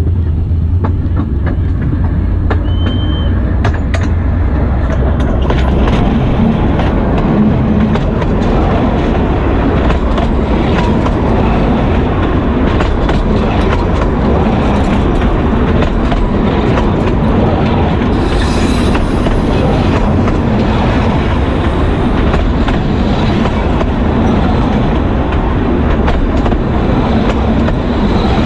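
Narrow-gauge train passing directly over the rails close above: a Henschel diesel locomotive's low engine drone gives way after a few seconds to the dense clatter and clicking of wheels rolling overhead.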